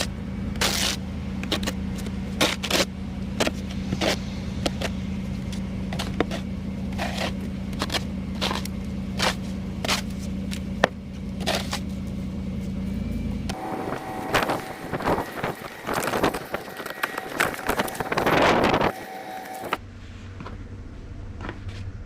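A snow shovel scraping over pavement again and again, over the steady hum of an idling vehicle engine. About two-thirds through, the sound cuts to a stretch of scraping and rustling without the engine hum, then near the end to a quieter low hum.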